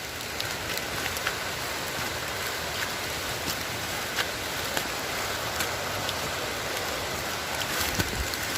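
Steady hiss of falling water with many small scattered ticks throughout.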